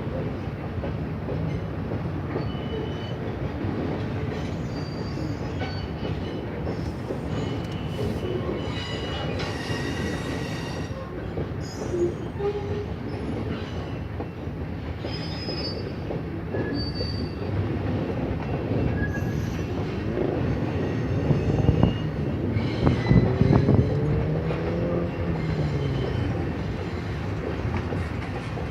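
Freight train rolling past, a steady rumble with intermittent high-pitched squeals from the rail car wheels and a wavering squeal between about 22 and 26 seconds.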